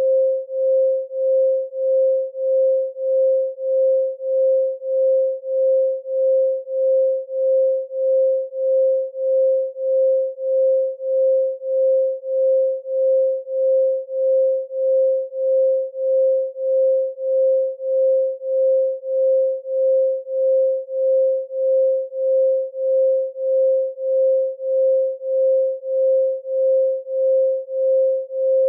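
Electronically generated 528 Hz pure sine tone, steady in pitch, swelling and fading evenly about twice a second.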